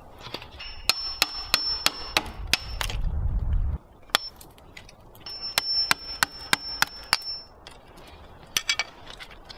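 Two runs of six or seven sharp, regular strikes, about three a second, each run with a steady high ringing tone under it. A low rumble builds during the first run and cuts off suddenly nearly four seconds in.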